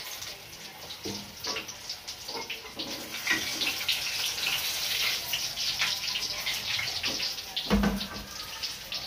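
Tofu frying in hot oil in a wok: a steady sizzle with frequent small crackles and pops. A single low knock sounds about eight seconds in.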